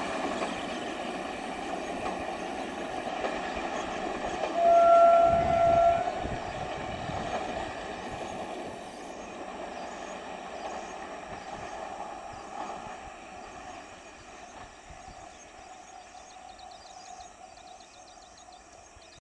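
Electric multiple unit local train running on the track, with one horn blast of about a second and a half some five seconds in. The running noise then fades away steadily toward the end.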